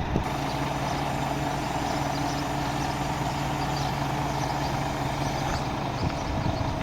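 Scania P 230 truck's diesel engine running steadily at an even speed, with a constant low hum.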